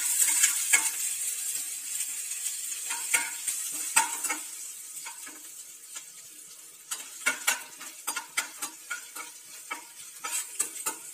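Ginger, green chillies, cumin and crushed coriander seeds sizzling in a little hot oil in a kadai while a metal slotted spoon stirs them, clinking and scraping against the pan. The sizzle is strongest at first and dies down by about halfway, leaving mostly the scrapes and taps of the spoon.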